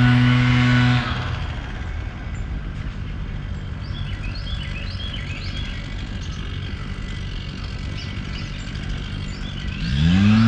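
A steady motor hum stops abruptly about a second in, leaving outdoor ambience with small birds chirping. Near the end a motor starts again with a rising whine that settles into a steady hum, like a vehicle pulling away.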